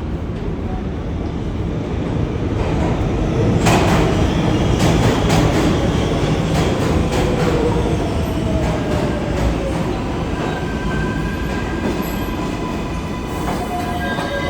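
NYC Subway R62A train running on the rails, loud. A run of sharp clicks from the wheels crossing rail joints comes a few seconds in, then a tone that slowly falls in pitch, with faint high wheel squeal near the end.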